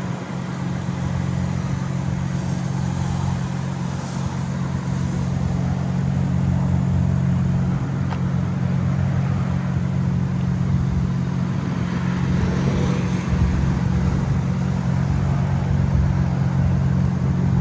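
BMW M4 CS's twin-turbo inline-six idling steadily, a constant low hum that holds even throughout.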